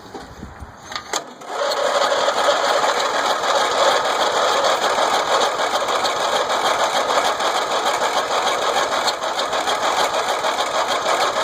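Riding mower's electric starter cranking the engine over steadily for about ten seconds, beginning a second and a half in, without the engine catching. The starter has just had its water-soaked brushes cleaned, and the engine may need choke.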